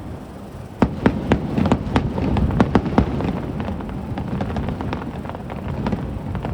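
Aerial fireworks bursting: a quick run of sharp bangs starting about a second in, thinning out after about three seconds, over a low rumble.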